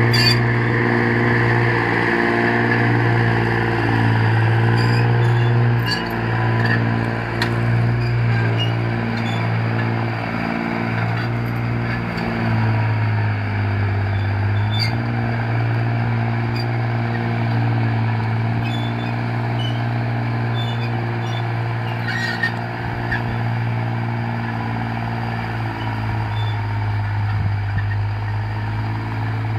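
Belarus 320 compact tractor's diesel engine running steadily, its pitch dipping slightly and rising again about halfway through.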